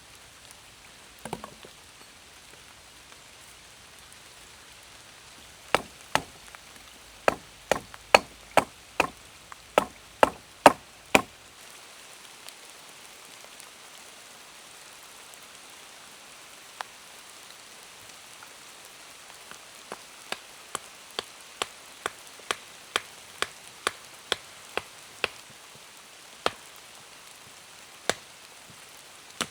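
Sharp chopping strikes on wood, about two a second, in a loud run of a dozen blows and, later, a softer run of about ten, over a steady patter of rain.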